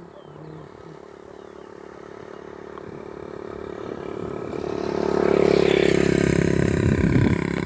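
A motor vehicle's engine approaching, growing steadily louder over about five seconds and staying loud near the end.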